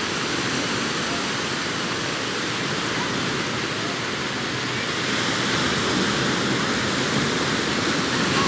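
Sea surf breaking and washing up a beach, a steady rush of waves that swells a little louder about halfway through.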